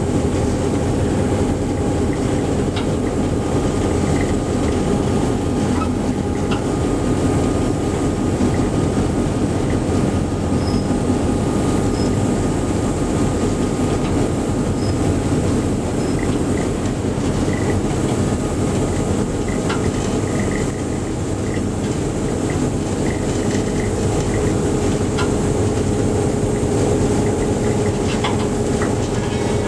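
Riding aboard a moving train: a steady rumble of wheels on rail with the running of a diesel locomotive, and light rail clicks.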